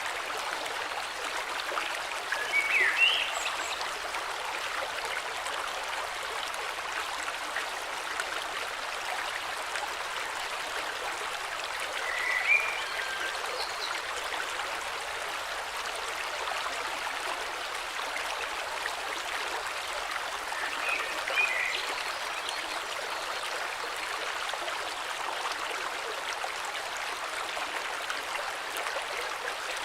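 A flowing river, a steady rush of water, with three brief bird chirps spaced about nine seconds apart.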